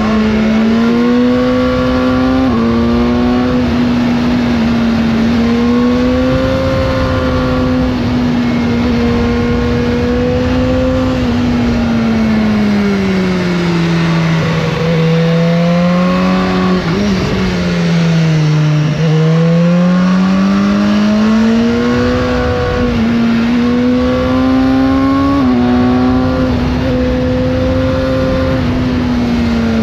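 BMW S1000R inline-four engine running through its stock exhaust under way, its note rising and falling with the throttle. Midway it drops off and slows, then pulls back up, with a few abrupt jumps in pitch from gear changes.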